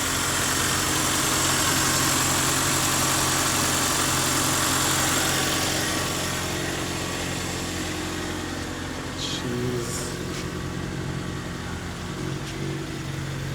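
Toyota 2ZZ-GE four-cylinder engine idling steadily, a hiss over it fading out about six seconds in.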